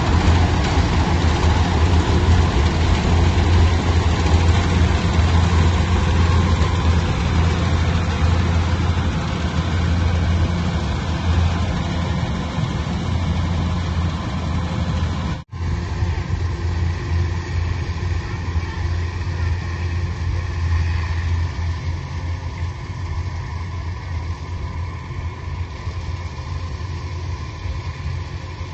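Engine of working farm machinery running steadily, with a deep, even hum. It breaks off for an instant about halfway through, then carries on slightly quieter.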